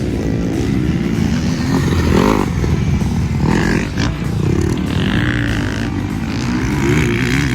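Motocross dirt bike engine running hard on the track, its revs rising and falling repeatedly as the rider works the throttle.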